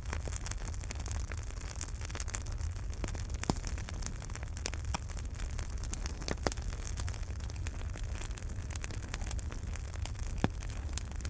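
Wood fire burning in a fireplace, crackling with a steady stream of small snaps over a low rumble, and three louder pops.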